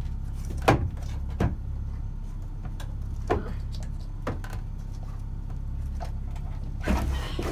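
Stiff boat-cabin drawers being tugged open by hand: about five sharp knocks and rattles, spaced unevenly, over a steady low rumble.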